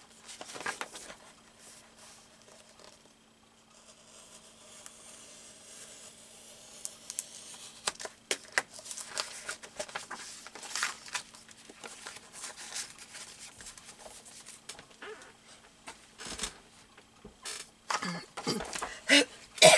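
Paper being handled: a soft rustle of a book page, then a run of crinkling, crackling and small ticking sounds from about eight seconds in as paper is moved and worked.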